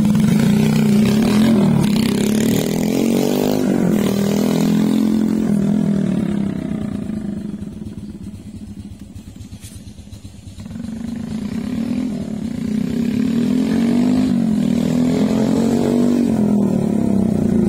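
Motorcycle engine with a custom aftermarket exhaust running, its pitch rising and falling with the revs. It fades away around the middle and grows loud again.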